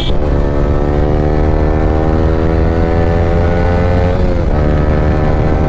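Yamaha R15 V3's single-cylinder engine through an Akrapovic exhaust, running under load as the bike cruises, its pitch climbing slowly. The revs dip briefly about four seconds in, then the engine pulls on again.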